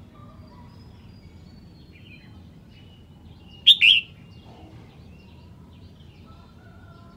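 Red-whiskered bulbul giving one loud, short two-note call about halfway through, over faint bird whistles and a low steady hum.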